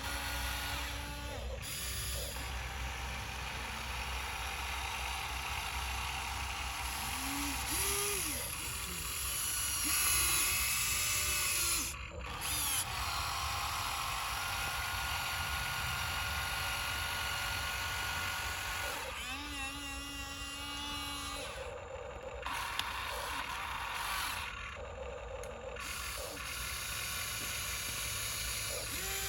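Radio-controlled dump truck's electric drive motor and gearbox whirring and whining, the pitch rising and falling as it speeds up and slows, with a short break about twelve seconds in.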